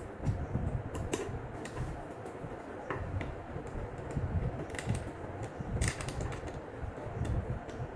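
Irregular sharp clicks and light taps at an uneven pace, over a low rumble of handling noise.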